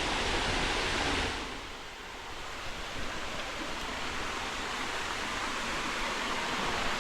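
Steady rushing of water from a creek waterfall. It is louder and fuller for about the first second, then drops abruptly to a softer, even rush.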